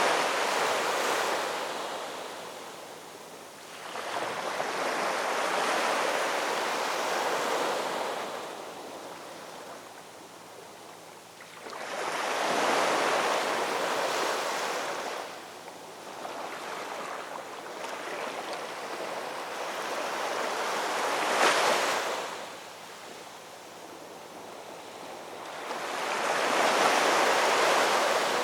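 Ocean waves breaking and washing on a shore, in slow surges that swell and fade about every five seconds, one wave cresting more sharply about three-quarters of the way through.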